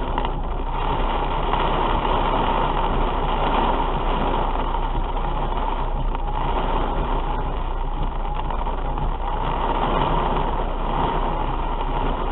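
Torrential rain drumming steadily on a car's roof and windshield, heard from inside the stopped car's cabin.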